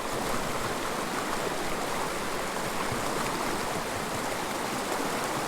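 Small mountain river's water flowing with a steady rush.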